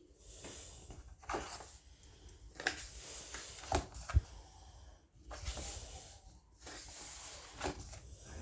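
Paper rustling in several short spells, with a few soft taps, as coloring-book pages are handled and turned.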